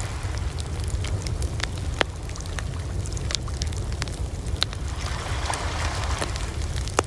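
Wood fire crackling, with scattered small snaps and an occasional louder pop, over a steady low rumble.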